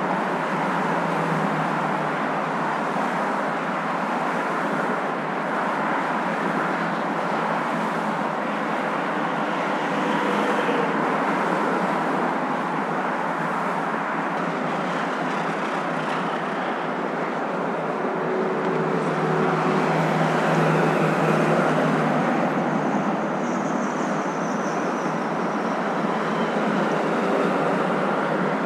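Steady humming noise of a moving car, with tyre and engine noise blended into one continuous sound. It swells slightly about two-thirds of the way through.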